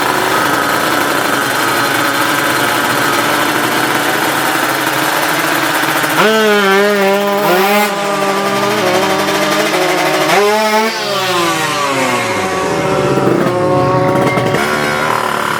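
Two-stroke Kawasaki Ninja drag bike engines running, with a sharp rev about six seconds in and another about ten seconds in, each followed by a falling pitch.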